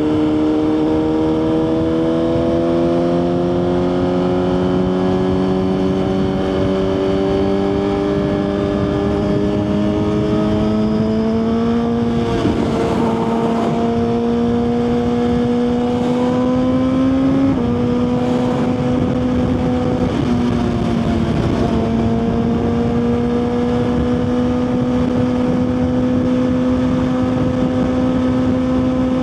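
Suzuki GSX-R1000 sportbike's inline-four engine running on the move, its pitch climbing slowly for about twelve seconds. Through the middle it breaks and jumps in pitch a few times, then holds steady.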